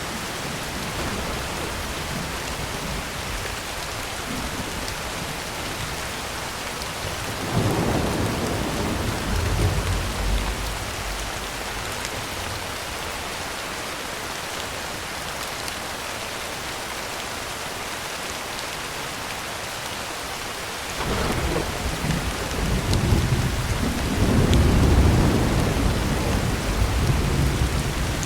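Heavy rain drumming steadily on a tin roof, with two rolls of thunder: a short rumble about a quarter of the way in and a longer, louder one building from about two-thirds of the way through.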